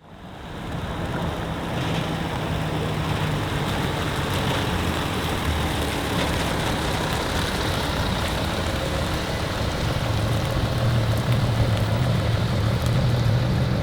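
Tuned Audi S4 B5 biturbo engine idling steadily, a little louder from about ten seconds in.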